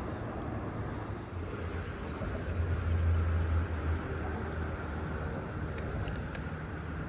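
Road traffic rumbling steadily, with a vehicle's low engine-and-tyre rumble swelling to its loudest about three seconds in. A few faint ticks near the end.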